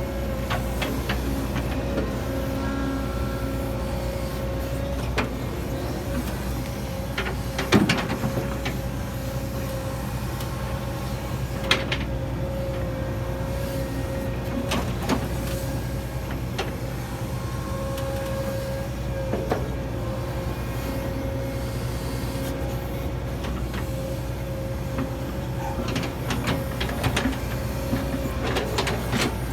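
Hitachi 135US excavator's diesel engine running steadily under work, with a steady whine over the engine and a few sharp knocks, the loudest about eight seconds in.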